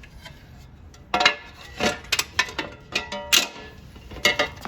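Small metal hardware clinking: washers, bolts and nuts knocked and handled while fitting an A-arm guard. There are about eight sharp clinks, several with a brief metallic ring.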